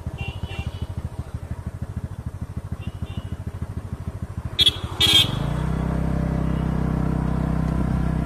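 TVS Ntorq 125 scooter's single-cylinder engine idling with a quick, even pulse. About five seconds in come two short sharp sounds half a second apart, and then the engine runs louder and steadier to the end.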